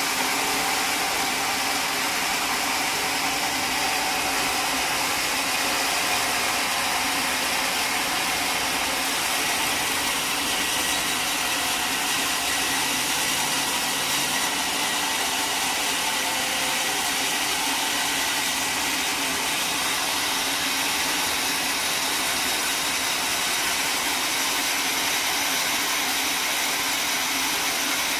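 Sawmill saw running steadily, a constant high hiss-like noise without pauses or changes.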